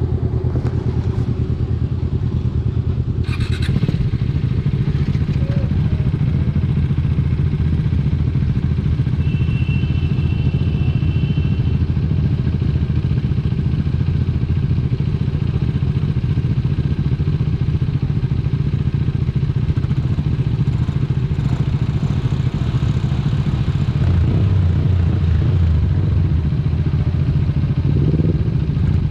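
Husqvarna Vitpilen's single-cylinder engine running steadily while riding. There is a sharp click about three seconds in and a short high beep around ten seconds.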